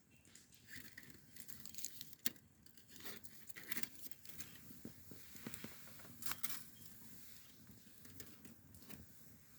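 Faint irregular crinkling and rustling with scattered sharp clicks.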